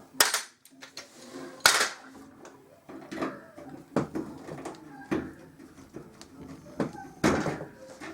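Metal tools and parts clattering and knocking during hands-on repair work: three loud knocks, near the start, about a second and a half in, and near the end, with lighter clinks in between.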